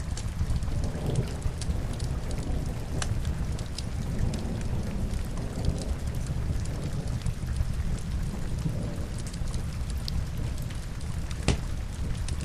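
Steady rain with a heavy low rumble, over which a wood fire crackles with scattered sharp pops, one louder pop near the end.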